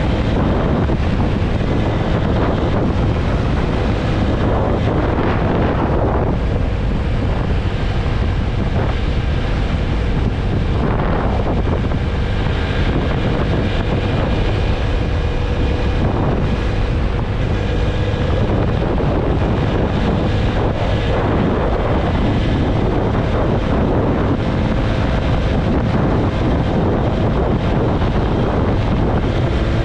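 Wind buffeting the microphone of a motorcycle riding at highway speed, a steady rushing with a few swells. Under it runs the faint steady hum of the TVS Apache RTR 160 4V's single-cylinder engine.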